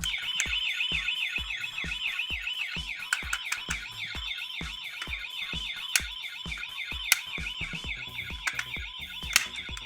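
Electronic emergency-vehicle siren warbling rapidly, about five rises and falls a second, over background music with a steady beat.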